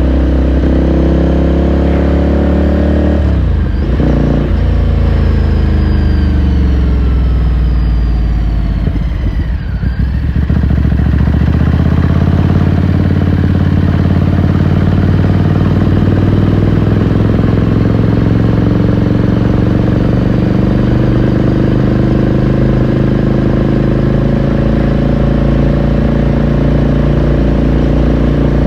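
Ducati Scrambler Sixty2's 399 cc air-cooled L-twin engine heard from the saddle while riding. It revs up and shifts gear about three and a half seconds in, revs up again, then backs off with a falling note around ten seconds in, and afterwards pulls steadily with the note slowly rising.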